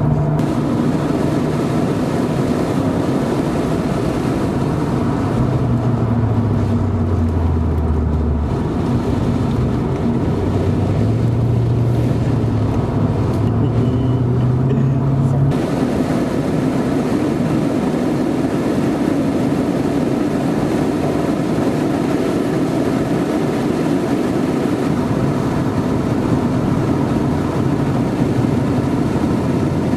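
Porsche 928's V8 engine heard from inside the cabin at track speed, under heavy wind and road noise. The engine note falls for a few seconds, then climbs again and holds. About halfway through the sound changes abruptly and the engine note is lost in the steady noise.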